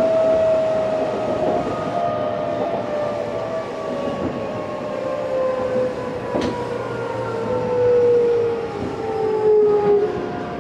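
SiC-VVVF inverter and traction motors of an Odakyu 8000 series train heard from inside the car, a whine with a few overtones falling slowly and evenly in pitch as the train slows, with a single sharp click about six seconds in.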